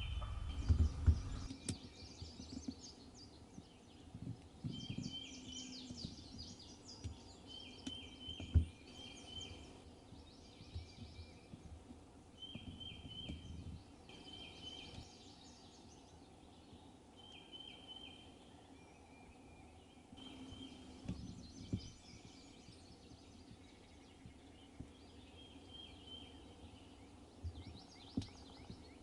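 Wild turkeys gobbling repeatedly from the roost at dawn, over a songbird repeating a short phrase of quick high notes.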